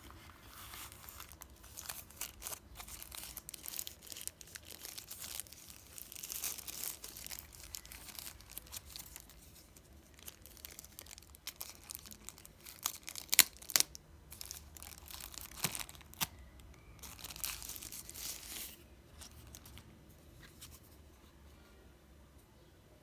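Packaging being handled and opened: irregular crinkling, rustling and tearing, with a few sharp clicks and snaps around the middle.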